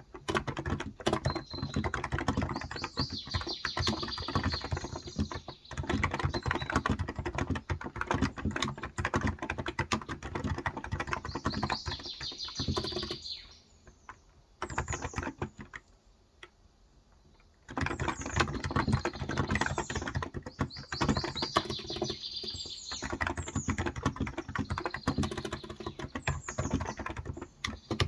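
Continuous fast typing on a Cox Endeavor electro-capacitive (Topre-style) tenkeyless keyboard with 35 g keys, pausing for about four seconds midway. Birds chirp in short falling notes in the background.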